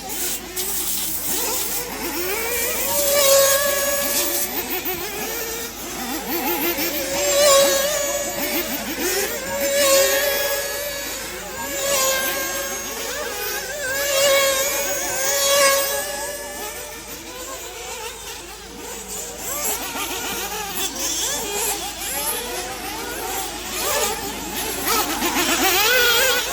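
A pack of 1/8-scale nitro off-road RC buggies racing, their small two-stroke glow engines buzzing high and revving up and down as the cars pass. The sound swells and fades in waves every couple of seconds.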